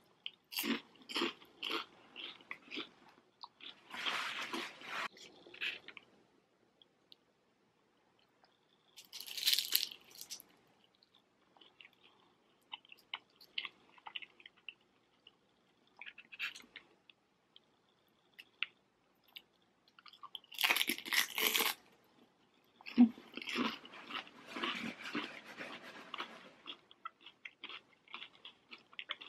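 Crunching and chewing of crispy fried chicken wontons, in several bouts of crackly bites separated by quiet pauses.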